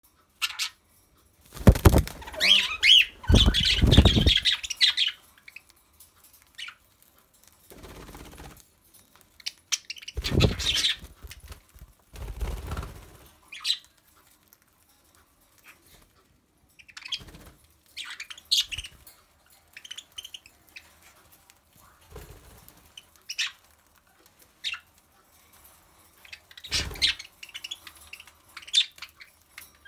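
Pet budgies and cockatiels chirping in short, scattered calls, with a few loud bursts of flapping and rustling, the biggest in the first few seconds and again about ten seconds in.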